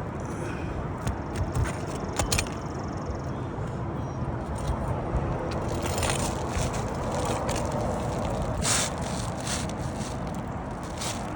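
Asphalt roof shingles being pried up and scraped on a layered roof, with a cluster of sharp clicks and knocks from the tool about one to two seconds in, over a steady low rumble.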